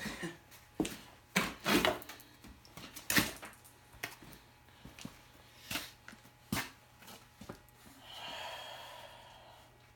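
Irregular knocks and clicks, a dozen or so, then a soft rushing sound lasting about a second and a half near the end.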